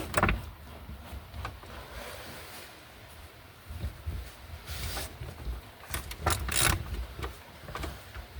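Scattered metallic clicks and knocks of a spanner or socket working on the seat-mounting bolts inside a car. There are a couple near the start and a cluster about six to seven seconds in, over a low rumble.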